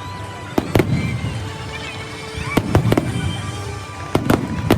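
Aerial fireworks bursting: sharp bangs in clusters of two or three, about every second and a half, over a low rumble between them.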